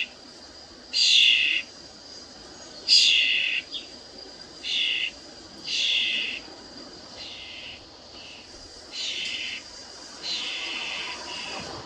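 A songbird giving short, raspy calls over and over, about one every one to two seconds, the later calls softer than the first ones.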